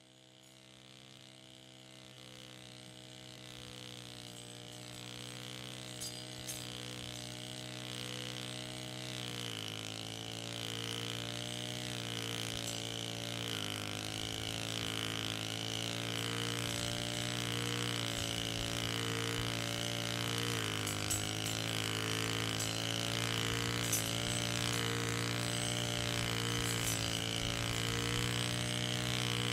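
Electric freight locomotive hauling a train of tank wagons, approaching: a steady humming whine that grows louder throughout, its pitch dropping in steps three times.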